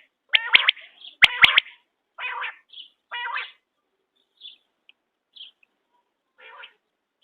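Quail calling: a run of short, harsh notes, loudest in the first second and a half, with a few sharp clicks among them. Two more calls follow, then scattered fainter notes.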